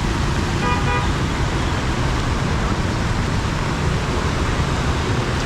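Steady noise of heavy rain and road traffic, with a short car horn toot just under a second in.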